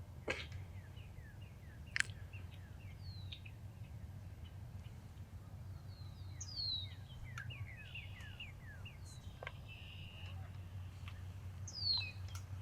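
Small birds chirping with short, quick downward-sliding notes, over a steady low rumble of outdoor background noise; two sharp clicks sound in the first two seconds.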